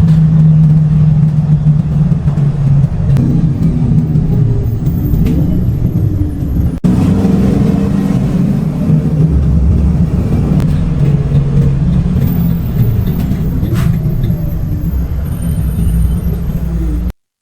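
Steady low engine drone and road rumble of a moving motor vehicle, with a brief break about seven seconds in; it cuts off suddenly near the end.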